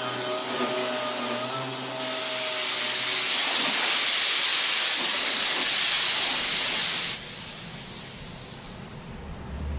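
A loud, even hiss of air-driven spraying from a nozzle, switched on abruptly about two seconds in and cut off sharply about five seconds later. Before it, a motor hums with a steady tone.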